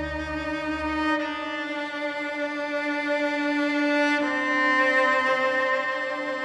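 Music of bowed strings: long sustained violin notes over a lower string line, with the notes changing about a second in and again about four seconds in, and a deep bass note fading away early.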